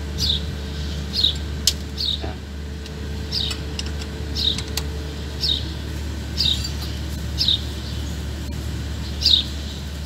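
A bird chirping over and over, a short high falling chirp about once a second, over a steady low hum. A few light metallic clicks come from a T-handle wrench undoing the 10 mm lock-plate bolts on a bus rear wheel hub.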